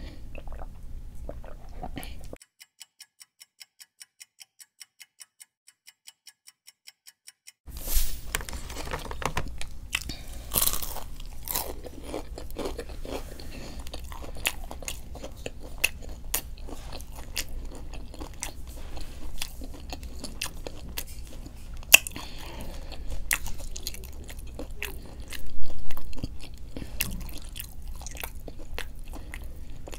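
Close-miked chewing and biting of food, with wet mouth clicks and crunches. Near the start the sound drops out for about five seconds, leaving only faint, even ticking, before the chewing resumes.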